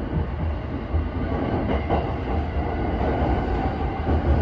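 Tokyo Waterfront Area Rapid Transit 70-000 series electric train running, heard from inside the driver's cab: a steady low rumble of wheels on rail with running noise, growing slightly louder.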